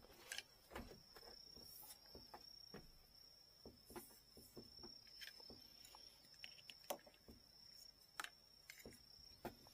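Faint, irregular small clicks and taps of handwork on a bamboo fishing-rod tip, over a faint steady high-pitched whine.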